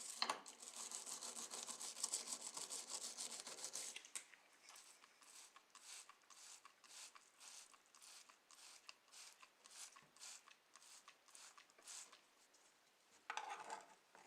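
Hand rubbing or scrubbing strokes against a surface: fast and continuous for the first few seconds, then slower separate strokes about two a second, then one louder scrape near the end.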